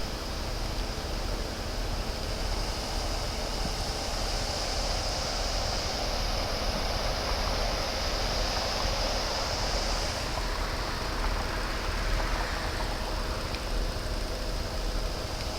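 A truck running: a steady, even rush of vehicle noise with a low rumble underneath.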